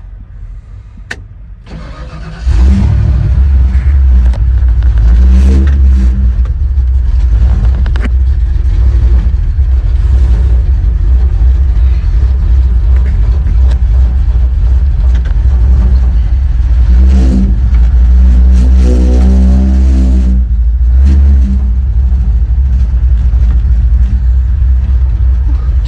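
Vehicle engine starts about two seconds in and then runs loud and low. Near the end there is a spell of higher revving as it pulls away and accelerates.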